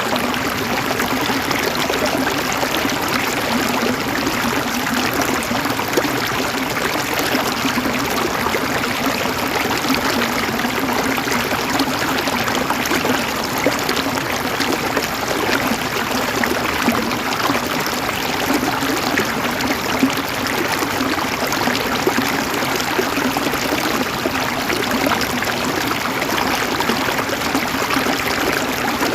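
Stream water flowing steadily over rocks, an even rushing and trickling without a break.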